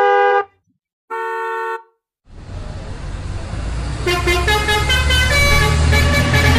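Two horn honks, a short one and then a longer one about a second later. A low engine-like rumble then builds, and music with a melody comes in about four seconds in.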